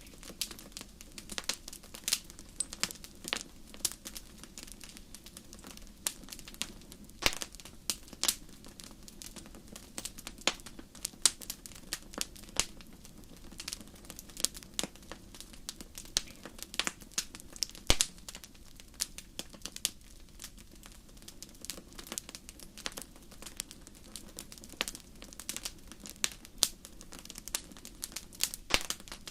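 Wood fire in a fireplace crackling, with frequent irregular sharp pops and snaps over a steady low hiss of the flames.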